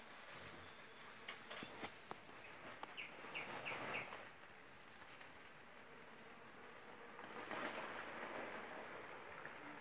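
Quiet outdoor ambience with a bird chirping: a quick run of four short chirps about three seconds in. A few brief clicks come about a second and a half in.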